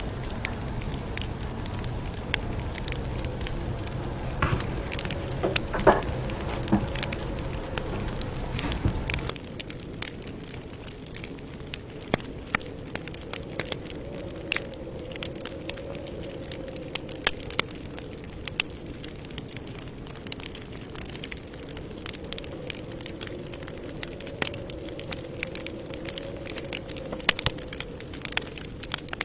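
Campfire crackling, with frequent sharp pops and snaps of burning wood over a soft hiss. A low rumble underneath stops suddenly about nine seconds in, and the loudest pops come around six seconds in.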